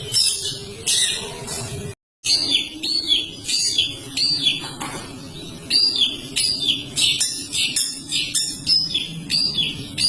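Long-tailed shrike (cendet) singing continuously: a fast run of sharp, repeated high chirps, several a second. The sound drops out for an instant about two seconds in, and a steady low hum runs underneath.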